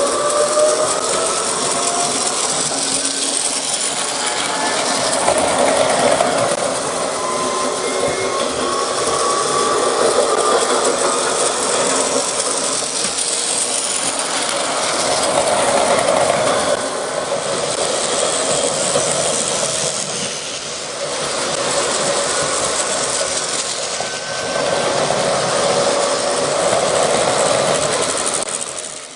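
Electric train running on rails, with a motor whine that rises in pitch several times as it picks up speed.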